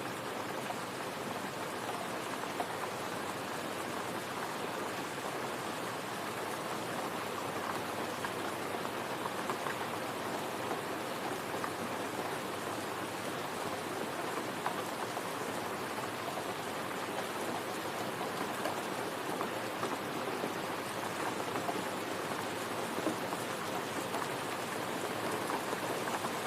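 Steady rain falling, a dense patter of drops on a surface.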